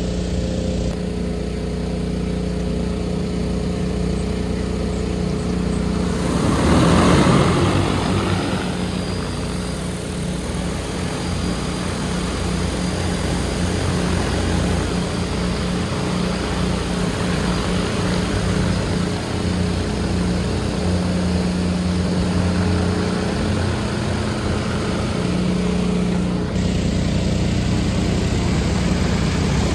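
Agricultural spraying drone's propellers humming steadily, louder for a few seconds about seven seconds in.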